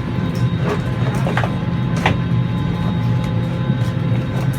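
Steady drone of an airliner's cabin during boarding, with the ventilation running and a few faint steady tones above the low hum. A few light clicks and knocks break in, about four times.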